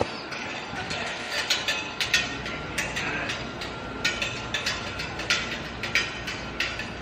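Sharp, clicky taps struck in a rough rhythm, about one and a half a second, from street performers busking.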